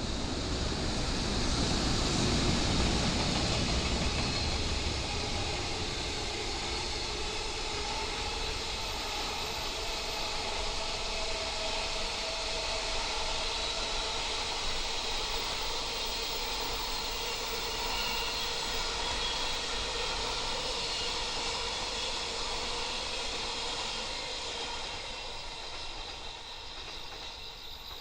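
Electric freight train passing: the locomotive is loudest in the first few seconds, then a long, steady rolling rumble of the freight wagons going by, which fades near the end.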